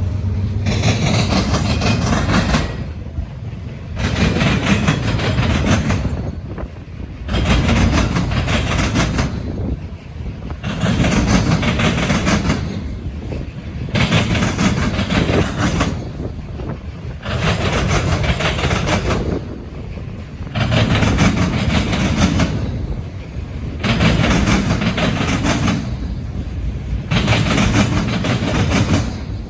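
Railroad cars rolling past, a wheel-and-rail rumble that swells and drops in a steady rhythm about every two and a half to three seconds as each car goes by.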